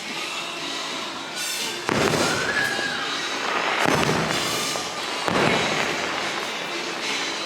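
Fireworks bursting three times, a couple of seconds apart, with crackling tails as each one fades. The show's orchestral soundtrack plays underneath.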